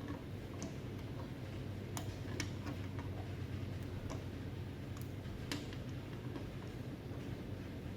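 Light metallic clicks of a cotter pin and pliers being worked in a front-hub castle nut, a few sharp ticks at irregular intervals over a steady low hum.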